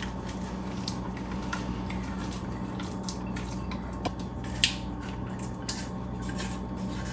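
Small clicks and taps of kitchen handling, the sharpest about four and a half seconds in, over a steady low hum.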